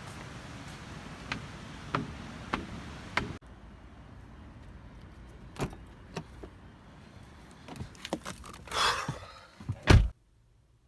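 Scattered clicks and knocks, then a short swish and one loud slam near the end, typical of a car door being shut.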